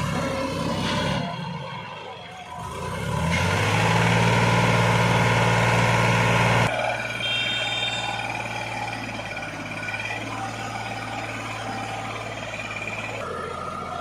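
Tractor diesel engine under load, revving up about three seconds in and holding a steady high note. It drops suddenly to a lower steady run about halfway through.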